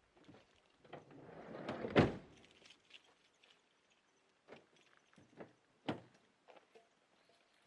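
A rustle that builds to a sharp knock about two seconds in, then several lighter knocks and taps.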